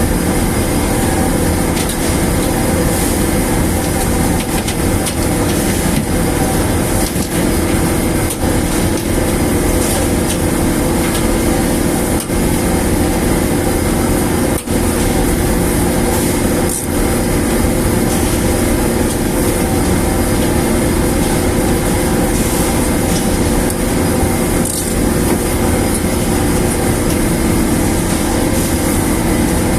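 A large machine running steadily with a continuous hum and rumble that holds the same pitch throughout.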